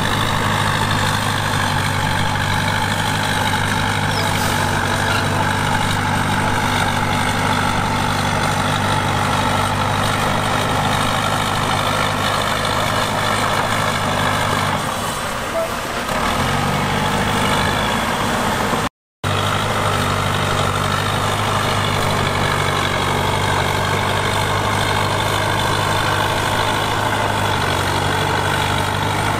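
Heavy diesel earthmoving machinery running steadily under work, with a steady low engine note. The sound dips briefly about halfway through and cuts out for a moment a little later before resuming.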